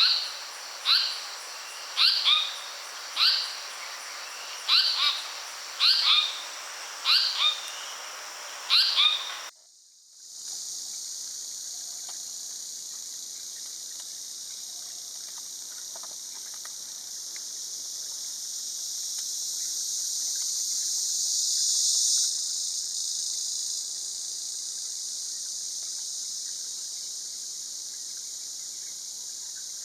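Blyth's paradise-flycatcher calling: about a dozen sharp, downward-slurred call notes, roughly one a second. After a break about ten seconds in, a steady high insect drone takes over, swelling to a peak a little past twenty seconds and then easing.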